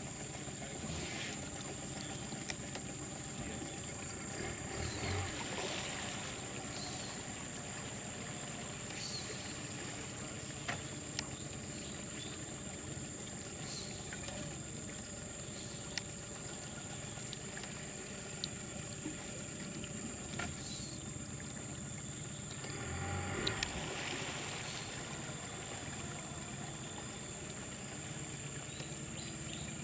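Rainforest river ambience heard from a boat: a steady high-pitched insect drone over a low hiss, with a few light knocks and a brief rustle about three quarters of the way through.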